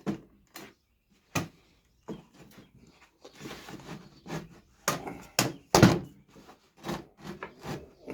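Brad nailer driving nails into wood: a series of sharp thunks at irregular spacing, the loudest bunched close together about five to six seconds in, with fainter knocks between them.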